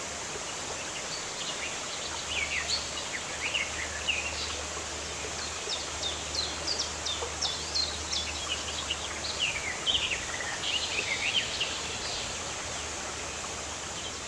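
Birds chirping: many short, quick chirps, several a second, over a steady rushing background hiss.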